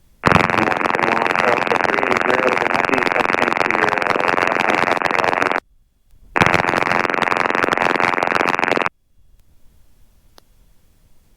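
Aviation radio heard through the intercom: two bursts of loud static, one about five seconds long and one about two and a half, each cutting in and out abruptly.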